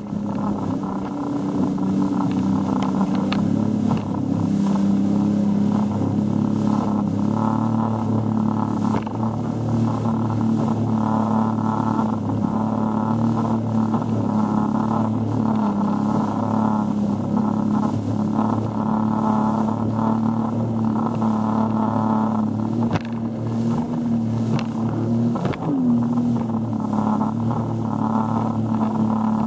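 Boat engine running steadily at one constant pitch, a continuous low drone with a rushing noise over it and a few brief knocks in the second half.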